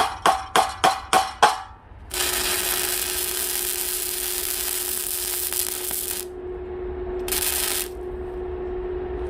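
A few quick metallic taps, then electric arc welding on steel: a dense crackling hiss for about four seconds and a second short burst near the end, over a steady hum.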